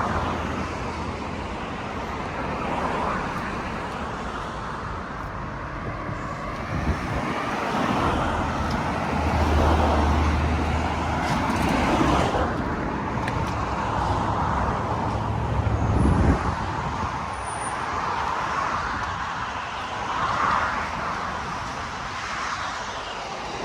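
Steady road traffic, cars and other vehicles passing one after another on a busy main road, swelling and fading as each goes by, with a low rumble of a heavier pass about ten seconds in.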